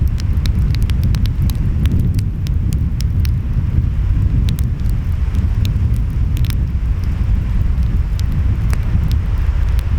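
Wood fire crackling, with frequent sharp pops at irregular moments, over a steady low rumble of surf and wind.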